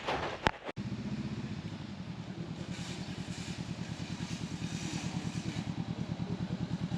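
Honda CB500X parallel-twin motorcycle engine running steadily at low revs with an even, rapid throb, after a brief clatter under a second in.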